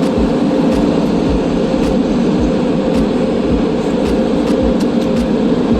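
Car wash air-dryer blowers running, a loud steady rush of air with a constant hum, blowing the rinse water off the car. Irregular low thumps sound underneath.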